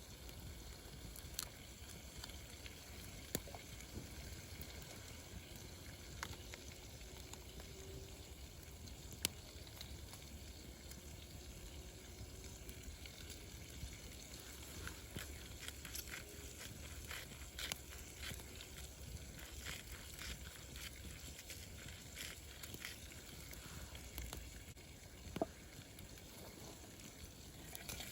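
Wood fire burning in a YOKA fire pit: a faint steady hiss with scattered crackles and pops, more frequent in the second half.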